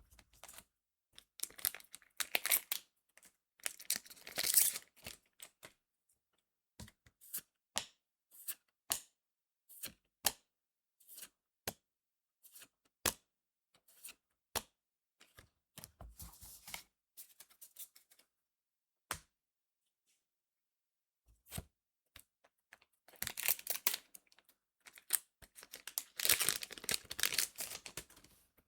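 Trading-card booster pack wrappers being torn open and crinkled, in two longer stretches near the start and near the end. Between them come sharp, scattered clicks and snaps of the cards being handled and laid down.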